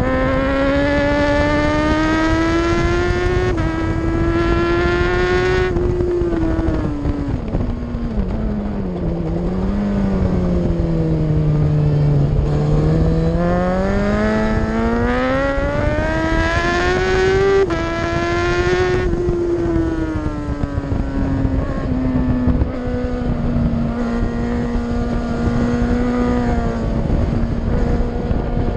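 Superbike racing motorcycle engine at high revs on track, with wind rush over the bike. About six seconds in the revs sink for several seconds, then climb back up in a few steps and hold steady at high revs to the finish.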